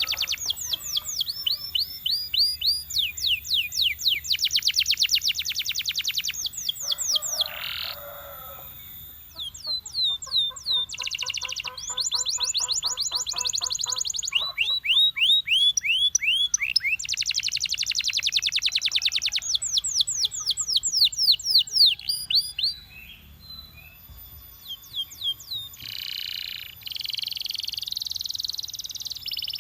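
Belgian canary singing a continuous song of fast rolls, each a rapid string of repeated downward-sweeping notes, switching to a new roll every second or two, with a harsher, buzzier phrase near the end.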